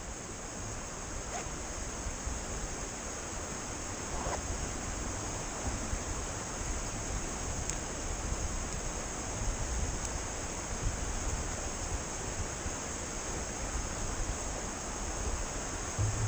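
Steady rushing noise of wind and tyres while riding an e-mountain bike, with a thin, steady high tone over it and a few faint ticks.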